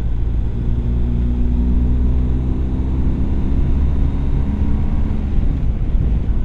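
BMW R1250GS Adventure's boxer-twin engine running while riding, a steady low rumble with wind noise. An engine tone stands out from about a second in and fades near the end.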